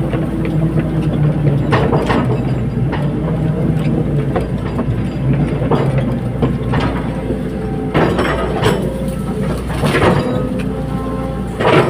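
Caterpillar 320D hydraulic excavator at work: the diesel engine runs steadily under sharp metallic clanks and knocks that come every second or two.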